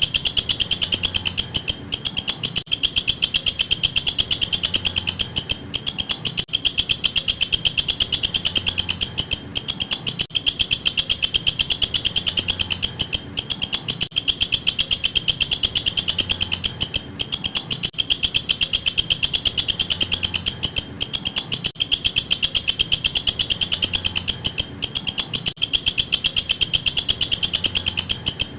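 Walang kecek, an Indonesian singing katydid, calling: a loud, high-pitched, fast train of rasping clicks that breaks off briefly every few seconds and starts again.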